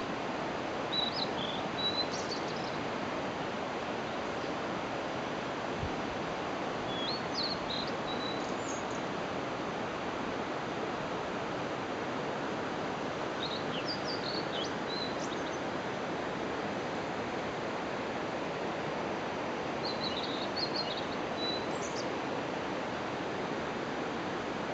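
A songbird singing short phrases of high chirps and whistles, four times, about every six seconds, over a steady rushing outdoor noise.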